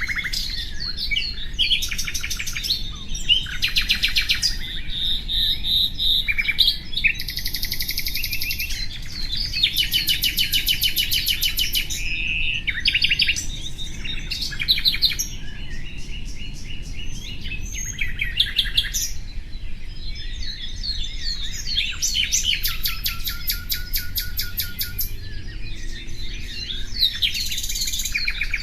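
Nightingale singing: a continuous string of varied phrases, mostly fast repeated trills and rattles with clear whistled notes, separated by short pauses. About two-thirds of the way in comes a lower, drawn-out whistle that rises slightly.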